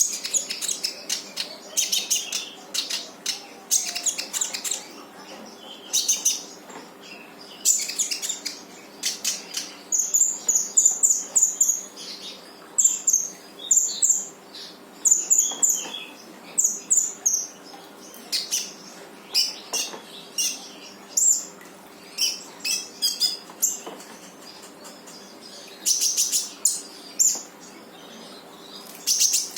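Konin bird singing energetically: repeated bouts of sharp, high chirps and quick trills, a new burst every second or so, with brief gaps.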